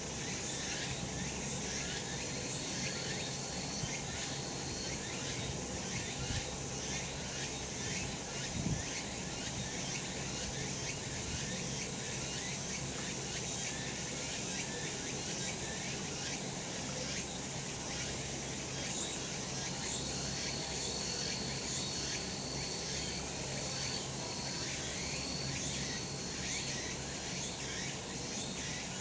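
Cicadas calling in a dense, unbroken high-pitched chorus with a fine rapid pulsing. A thin high steady note rises above it for a couple of seconds near the start and again for several seconds from about two-thirds through.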